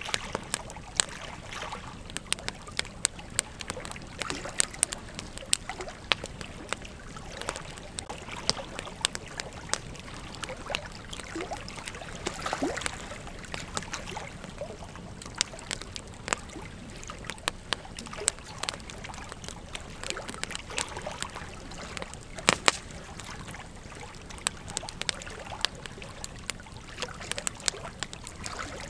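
Wood campfire crackling, with irregular sharp pops and snaps over a steady hiss, and a couple of louder pops a little past two-thirds of the way through.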